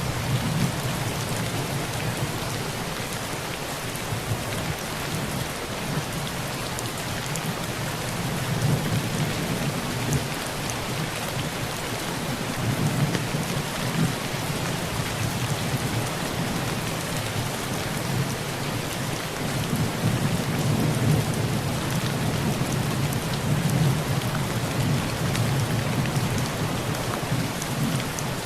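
Heavy rain falling steadily on a tin roof, with low thunder rumbling in the distance and swelling and fading a few times.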